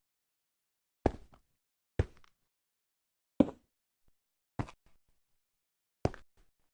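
Five short, separate knocks about one to one and a half seconds apart, with silence between them; the third is the loudest.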